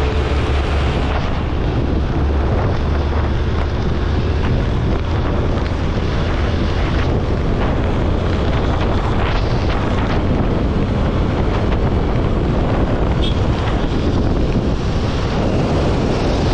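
Wind rushing over the microphone of a motorcycle at road speed, a loud steady noise with a low engine hum underneath.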